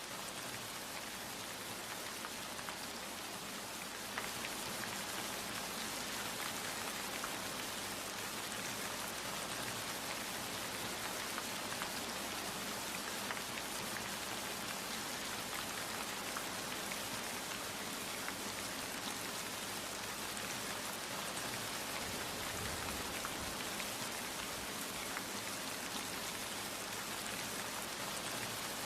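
Steady rain falling, a dense hiss with the patter of individual drops striking a surface; it grows slightly heavier about four seconds in.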